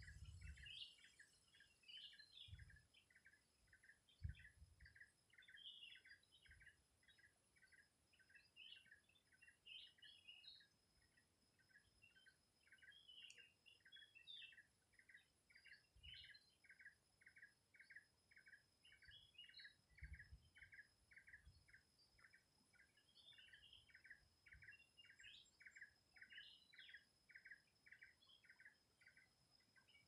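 Faint birdsong: one bird repeats a short note steadily, two or three times a second, while other birds give scattered higher chirps.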